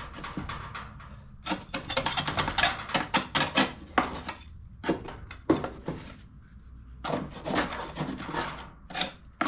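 Putty knife scraping caked grass debris and rust off the steel underside of a push mower's deck, in quick irregular strokes with a couple of short pauses.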